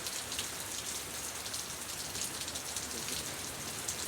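Steady rain falling, with many small drops pattering on surfaces.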